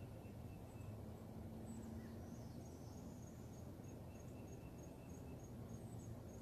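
Faint outdoor dawn ambience: a steady low background rumble with a high, thin chirp repeating evenly about three times a second from a couple of seconds in, and a few scattered higher chirps.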